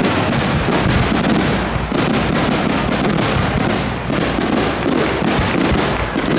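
Fireworks going off in rapid succession: a dense, loud, unbroken barrage of bangs and crackles.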